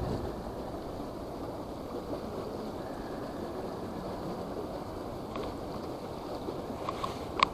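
Strong wind buffeting the microphone over moving water: a steady rushing noise, with a few light clicks near the end.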